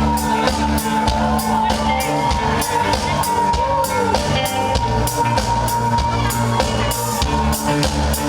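A live band starts the instrumental opening of a song. A bass line and drum beat come in at once, with a sharp hit about twice a second.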